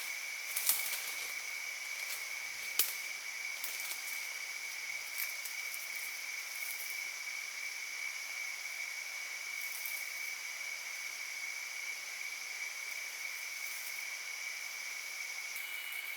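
Steady insect drone, a single high tone held unbroken, over a faint even hiss, with a few sharp clicks in the first three seconds.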